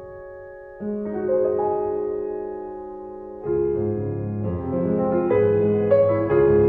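Piano music: slow, soft chords that ring and fade. It grows fuller with low bass notes and moving melody notes from about three and a half seconds in.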